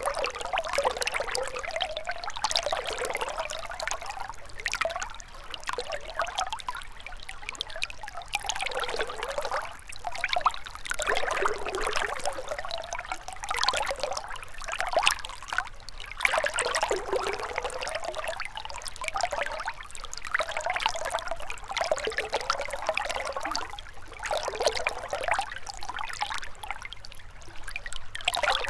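Shallow river water flowing and trickling over stones, a steady babbling that swells and eases every second or two.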